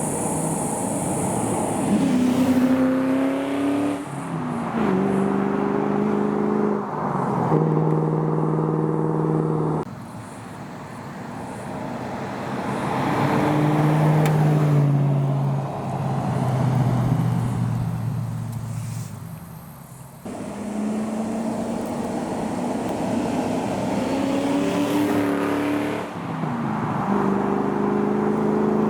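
Ford Falcon XR8 ute's 5.4-litre Boss V8 pulling through the gears: the engine note climbs, drops at each upshift and climbs again. It backs off twice, about a third of the way in and again about two-thirds of the way in, before accelerating once more.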